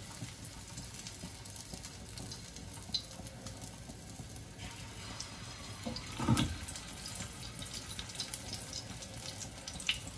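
Egg-coated chicken shami kababs frying in about a tablespoon of oil on a non-stick tawa: a steady sizzle with fine crackles, a little louder from about halfway in as a second kabab is laid down. A brief knock about six seconds in.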